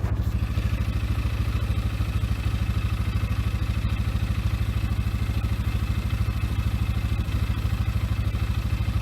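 Polaris Sportsman 500 ATV's single-cylinder four-stroke engine idling steadily with a throbbing beat, joined about a third of a second in by the steady whine of its electric winch lifting the snow plow blade.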